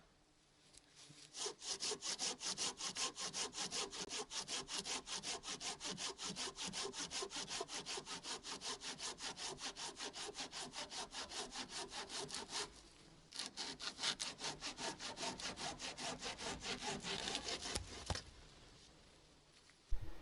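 Hand saw cutting through wood with quick, even back-and-forth strokes, a short pause about two-thirds through, then more strokes until it stops near the end.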